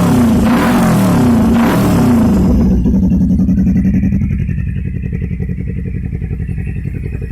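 Kawasaki Ninja 250 FI parallel-twin through an aftermarket stainless slip-on exhaust, revved in several quick blips, then settling to a steady idle about three seconds in.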